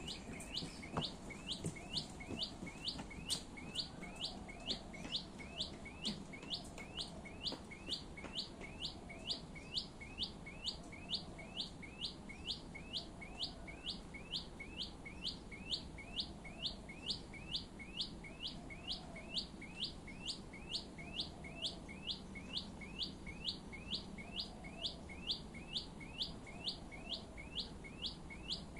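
Brown shrike singing: a single short, sharp note that sweeps up in pitch, repeated steadily about two and a half times a second.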